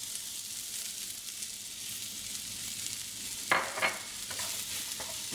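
Broccoli and pineapple sizzling steadily in olive oil in a frying pan as they are stirred, with two short louder scrapes or knocks about three and a half seconds in.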